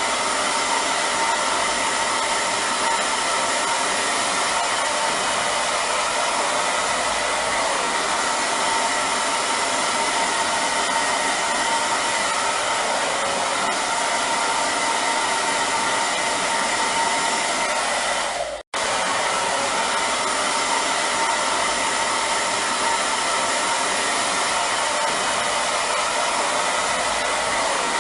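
Hair dryer running steadily, a continuous airy whoosh with a faint whine, cutting out for a split second about two-thirds of the way through before resuming unchanged.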